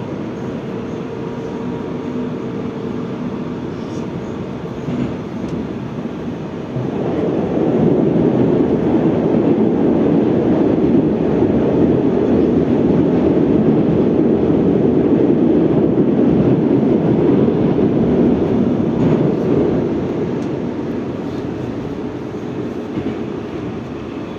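81-740.1 "Rusich" metro train under way, heard from inside the car: a steady rumble of wheels and running gear that grows markedly louder about seven seconds in, holds, then eases off again near the end.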